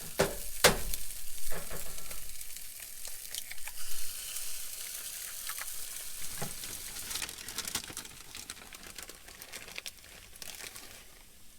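Eggs and sausage frying in a pan: a steady sizzle, with a few sharp knocks of a utensil against the pan in the first couple of seconds. The sizzle dies down near the end.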